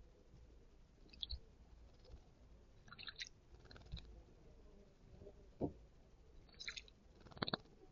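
Faint, scattered soft taps and small splashes from a garden bird drinking and bathing in a shallow terracotta water bowl, with the sharpest taps a little after halfway and near the end.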